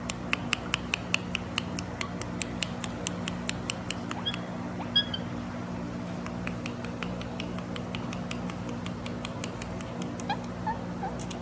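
Indian ringneck parrot making a rapid series of sharp clicks, about five a second at first and then sparser, with a couple of short high chirps near the middle and a few brief calls near the end.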